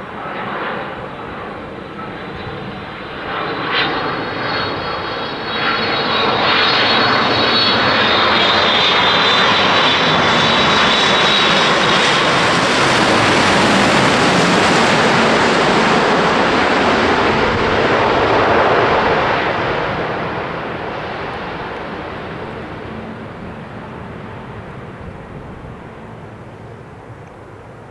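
Aircraft engine noise passing by: a rushing roar that builds over several seconds, stays loud for about twelve seconds, then fades away, with a thin high whine in the first half.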